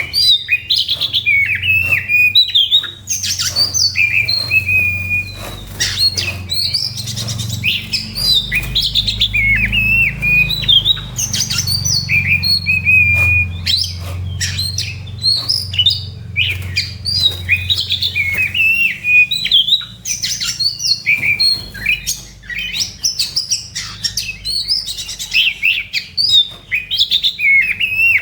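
Oriental magpie-robin (kacer) singing non-stop in its aggressive fighting song, a rapid, varied stream of whistles, trills and chirps. A low hum runs underneath and stops about two-thirds of the way through.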